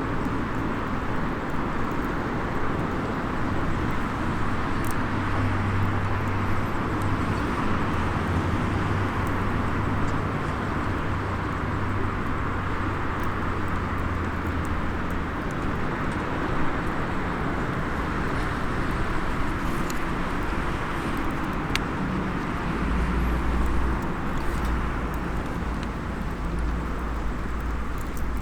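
Outdoor ambience of a small wood fire: a steady rushing noise with a low engine rumble of distant traffic that swells twice, and a few faint crackles from the burning wood.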